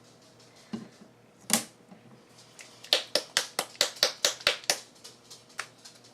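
Sharp clicks and taps from small plastic bottles of craft paint being handled while paint is put out onto a craft mat: a single click, then a quick even run of about ten clicks over two seconds, then one more.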